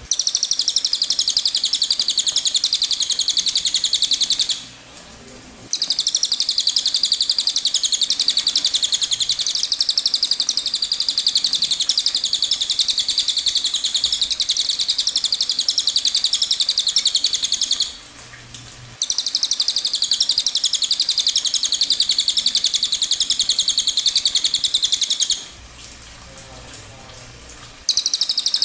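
Small songbird singing long, very fast, high-pitched trilling phrases, broken by short pauses about five, eighteen and twenty-five seconds in.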